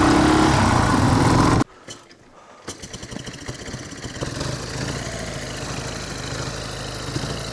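Motorcycle engine running, cut off abruptly about a second and a half in; after a moment of near silence a quieter, steady engine sound comes back.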